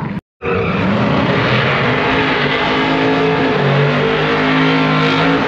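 Drag-racing car engine running loud at the strip, several steady engine tones shifting slightly in pitch. The sound drops out completely for a split second just after the start.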